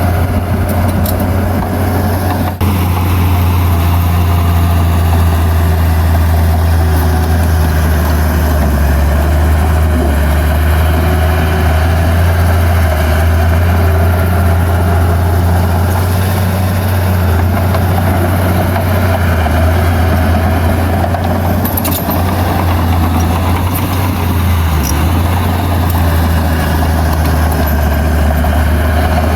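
Heavy earthmoving machine's diesel engine running steadily, a loud low drone that shifts slightly in pitch. A single sharp click or knock about two and a half seconds in.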